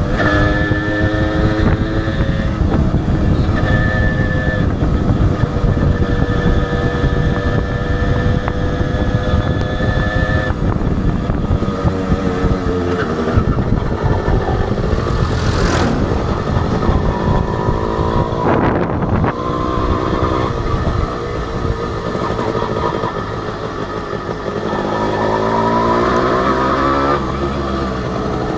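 Honda H100S two-stroke motorcycle engine running under way. Its pitch holds steady for several seconds at a time, shifts and wavers in the middle, and climbs again near the end as it revs up.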